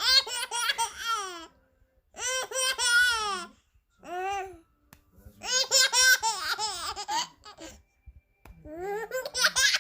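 A baby laughing in high-pitched fits of giggles, about five bouts broken by short pauses for breath.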